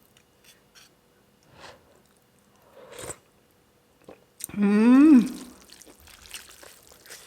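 Tasting beef noodle soup: faint sips and mouth sounds, then about halfway through a single drawn-out 'mmm' of approval that rises and falls in pitch.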